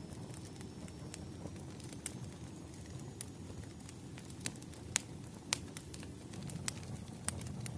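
Wood fire crackling: a steady low rumble of burning logs with sharp, irregular pops, the two loudest about five seconds in.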